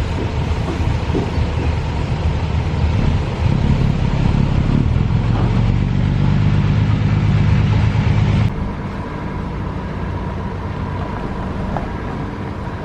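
Diesel engine of heavy construction machinery running steadily, growing louder for a few seconds. About eight and a half seconds in it cuts abruptly to a quieter engine drone.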